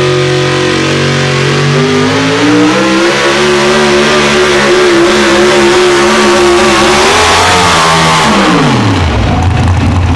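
A powerful tractor engine running hard: its revs climb about two seconds in, hold high and steady under load, then fall away steeply near the end.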